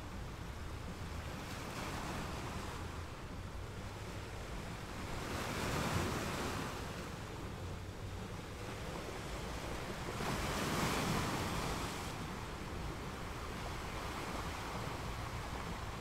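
Ocean surf: a steady wash of waves that swells twice, about six seconds in and again about eleven seconds in, as waves break.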